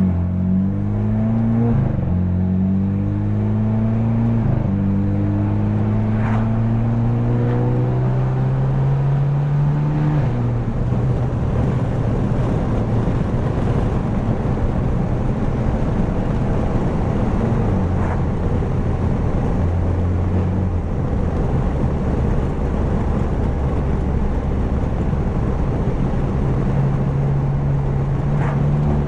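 Straight-piped, tuned BMW F30 328i with a turbocharged 2.0-litre four-cylinder accelerating hard: the engine note climbs and breaks at three upshifts in the first ten seconds, then settles into steady cruising with road noise. A few sharp exhaust cracks come through, about six seconds in, around eighteen seconds and near the end.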